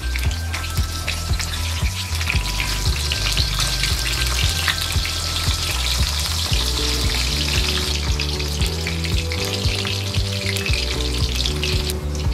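Eggplant slices deep-frying in hot oil in a wok: a steady crackling sizzle that eases off just before the end. Background music with a steady beat plays underneath.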